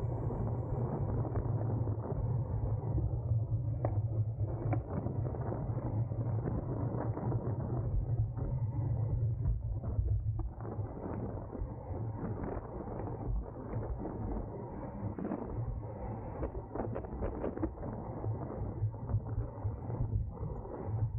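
Steady wind rush and road rumble from a road racing bike at race speed, with frequent short clicks and rattles from the bike.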